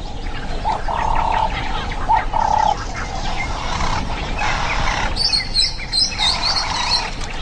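Wild birds calling over a steady outdoor hiss: a short whistled note of about half a second repeats four times, and a quick run of high chirps comes about five seconds in.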